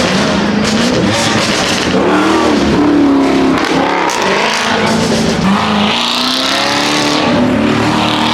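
Car engine revving hard, its pitch climbing and falling several times, with a louder rushing noise at about six seconds.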